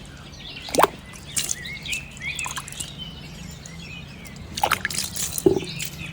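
Water splashing and dripping in three short bursts, with small birds chirping and a steady low hum underneath.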